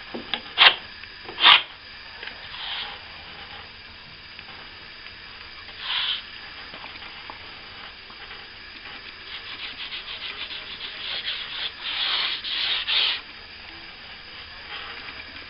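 Plasterer's trowel scraping across a plaster ceiling repair in strokes: two sharp strokes at the start, another about six seconds in, then a run of quick short strokes building to a few louder, longer ones near the end.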